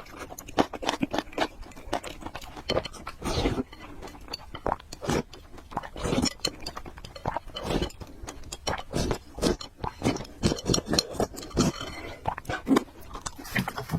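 A person chewing and eating noodles, with many irregular short wet smacks and clicks of the mouth, close to the microphone.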